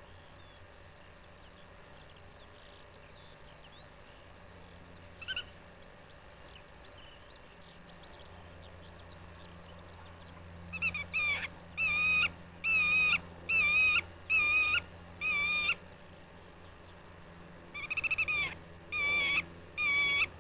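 A bird calling: a run of about six loud, pitched, half-second calls in the second half, then three more after a short pause, over faint twittering of other birds.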